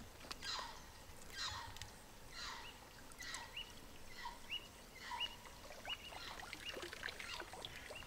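Forest birds calling: a falling whistle repeated about once a second, with short high chirps in between, fairly faint.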